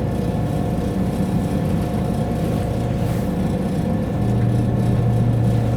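Class 172 Turbostar diesel multiple unit underway, heard from inside the carriage: a steady low drone of engine and running noise, with a low hum that strengthens about four seconds in.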